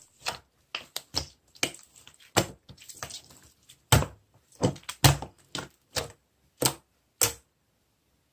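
A dozen or so sharp taps or knocks, irregularly spaced at roughly one or two a second, stopping about seven seconds in.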